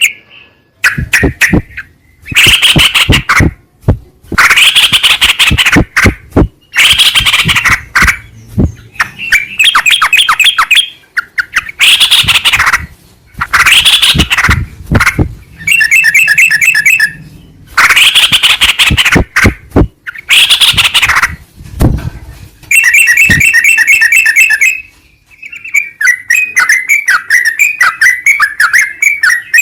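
Yellow-vented bulbul (trucukan) song, very loud: short bursts of harsh rapid rattling chatter, broken by quick strings of repeated clear notes, with a fast run of chirps near the end.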